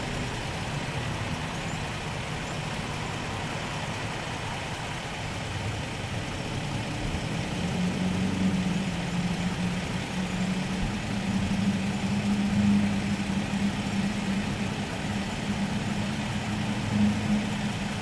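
A motor vehicle engine idling: a steady running noise, with a low hum joining in about eight seconds in.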